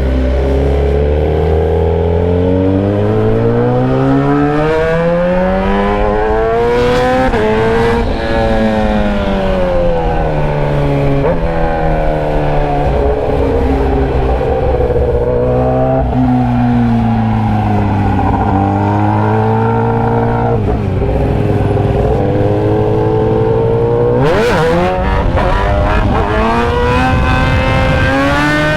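Motorcycle engine running with its muffler removed, exhaust straight out of the bare pipe, as the bike is ridden: the engine note rises under acceleration and falls when easing off, several times over, with a few abrupt pitch jumps at gear changes.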